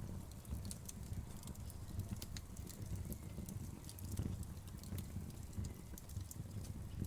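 Wood fire crackling: frequent small sharp pops and snaps over a steady low rumble.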